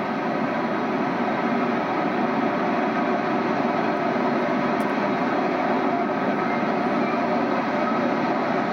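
Beaver-dam floodwater rushing through a small stream channel: a steady, even roar of fast-moving water.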